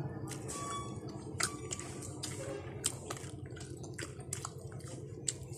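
Close-up wet chewing and lip-smacking of a person eating grilled fish and rice by hand: irregular sharp smacks and clicks over a steady low hum.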